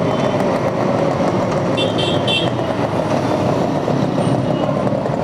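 Busy city road traffic with engines running steadily, and two short high-pitched horn toots about two seconds in.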